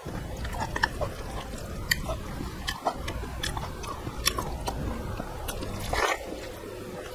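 Close-miked eating by hand: chewing and mouth clicks, with the soft squish of rice being mixed with fingers. A louder wet sound about six seconds in as a handful of rice goes into the mouth.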